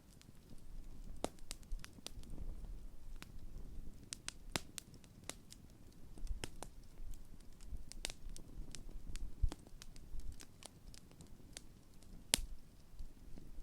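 Large wood campfire burning, with irregular sharp pops and crackles over a low rumble of the flames.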